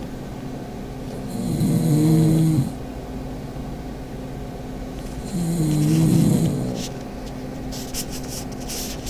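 Pug snoring: two long snores about four seconds apart, each with a wavering, pitched rattle, and a few short clicks near the end.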